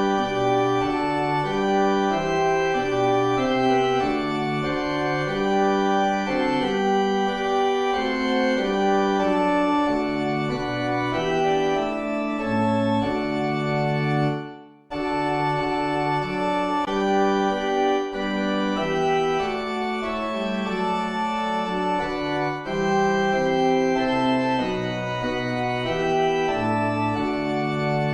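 Organ playing held chords over a moving bass line. It breaks off abruptly about halfway through and starts again half a second later.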